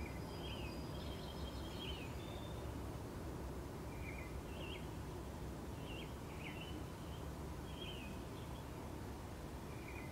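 Small birds chirping in short, high calls and quick sweeps, a few at a time every second or two, over a steady low background rumble.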